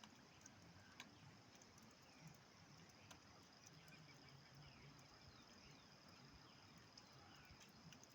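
Near silence: a faint outdoor background with scattered faint ticks and a faint steady high-pitched tone.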